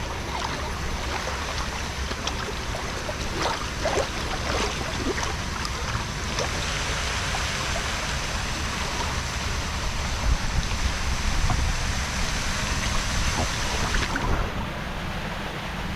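Steady rush of running, splashing water, with a low wind rumble on the microphone. The water hiss fades out about two seconds before the end.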